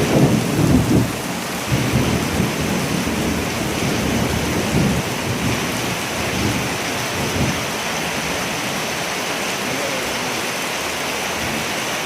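Steady heavy rain with rolling thunder, rumbling loudest in the first second and in a few weaker surges, dying away after about eight seconds to rain alone.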